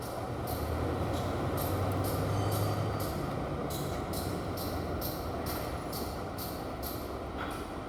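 Isuzu 4BD1 turbo four-cylinder diesel engine running steadily, with a short high-pitched tick repeating about twice a second over the low hum.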